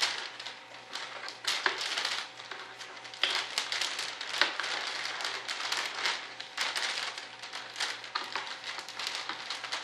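Plastic bagging film being handled, crinkling and crackling in irregular rustles and small clicks, over a faint steady hum.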